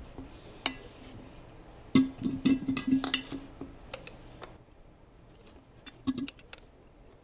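Irregular metallic clinks and clatter of hand tools and small parts being handled, with a busy run of clicks a couple of seconds in and a few more near the end.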